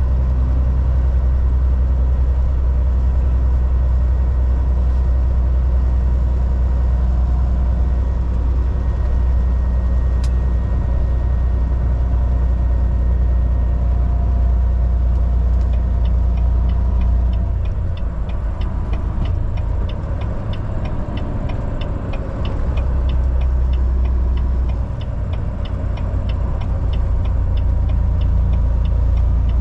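Volvo VNL 760 semi-truck's engine and road noise heard from inside the cab as a steady low drone. Past the middle the drone drops and wavers for several seconds. From a little over halfway a rapid regular ticking of about three ticks a second joins it.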